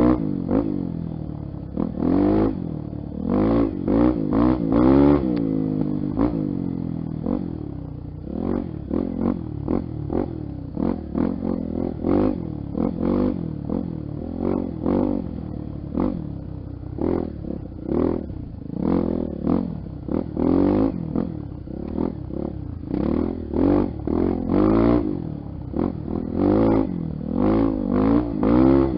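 Honda XR250 Tornado's single-cylinder four-stroke engine under way off-road, its pitch rising and falling over and over as the throttle is opened and closed in short surges.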